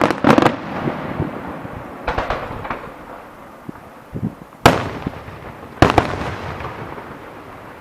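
Fireworks display going off: a cluster of bangs at the start, a run of crackling about two seconds in, then two sharp loud bangs a little over a second apart, each trailing off in an echoing rumble.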